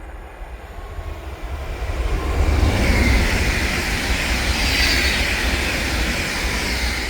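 A train passing at speed: rumble and wheel-on-rail noise build up over the first two or three seconds, hold loud, then begin to fade near the end.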